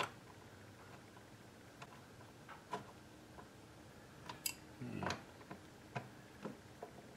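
Faint, irregular clicks and light taps of small parts being handled while the climate control unit is put back together, with a few close together about four to five seconds in.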